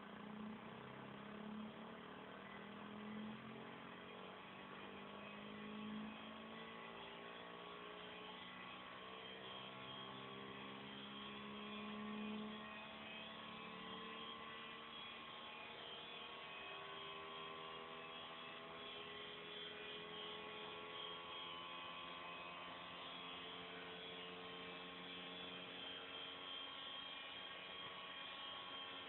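Homemade pulse motor with a hard-drive-platter rotor, its coil switched by a Hall sensor and power transistor, giving a faint steady hum with many overtones whose pitch drifts slowly as the rotor speed wanders.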